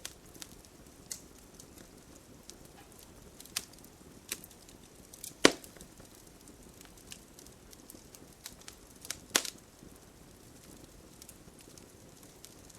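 Campfire crackling: irregular sharp pops and snaps of burning wood over a soft, steady hiss. The loudest pop comes a little before halfway, and a strong pair of pops comes about three quarters through.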